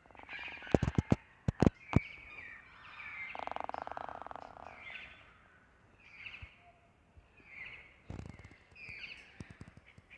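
Birds calling again and again, short high calls about once a second. About a second in comes a quick run of loud, sharp knocks, and in the middle a buzzing sound lasting about a second and a half.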